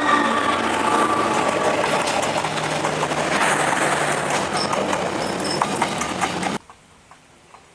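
Train passing close by: a steady rumble of rail cars with wheel clatter and clicks on the track. It cuts off suddenly near the end, leaving only faint background sound.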